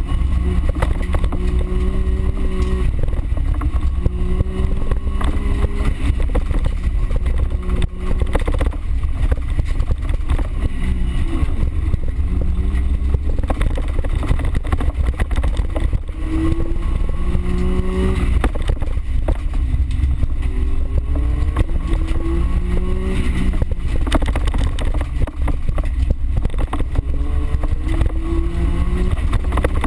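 A small racing 4x4's engine heard from inside the cabin, run hard on a dirt course: its pitch climbs and breaks off over and over as the driver accelerates and shifts. Under it runs a heavy low rumble, with scattered knocks and rattles.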